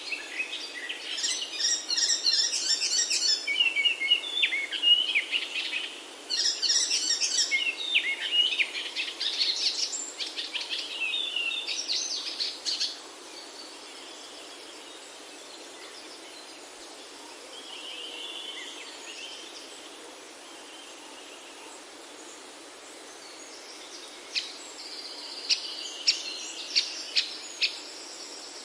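Birds singing and chirping over a steady background hiss of outdoor ambience: a busy chorus of rapid chirps and trills for the first half, fading to faint calls, then a short series of sharp chirps near the end.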